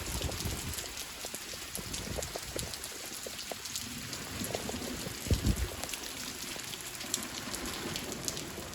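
Paper and rubbish burning in a fireplace: a steady hiss with many small sharp crackles, and a dull thump about five seconds in.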